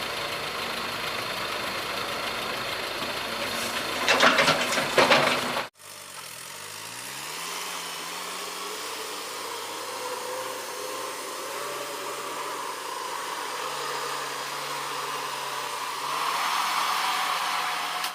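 Doosan excavator's diesel engine running, with a burst of loud clattering about four seconds in. After an abrupt cut near six seconds, a quieter low hum follows whose pitch steps up and down, growing louder near the end.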